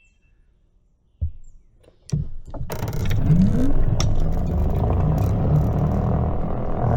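Two knocks, then a Greenworks 60V electric mini bike pulls away: a loud, steady rush of wind and road noise, with a short rising motor whine about three seconds in.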